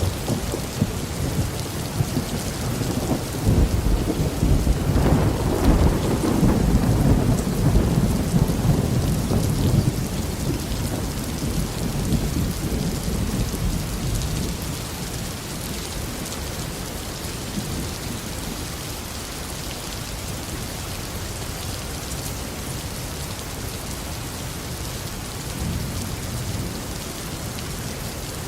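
Tropical thunderstorm: heavy rain falling steadily while a long roll of thunder rumbles through the first half, swells a few seconds in, and fades away by about the middle, leaving the even hiss of rain.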